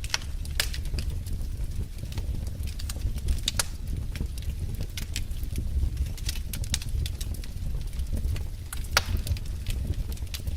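Wood fire in a fireplace crackling: irregular sharp pops and snaps over a steady low rumble of the flames, with one louder pop near the end.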